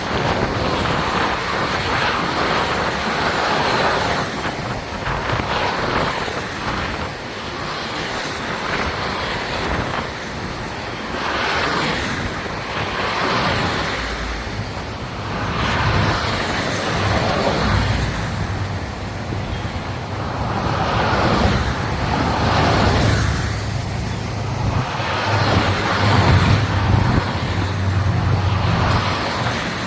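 Highway traffic: vehicles passing one after another, their tyre and engine noise swelling and fading every few seconds. About halfway through a steady low engine drone joins in and keeps going.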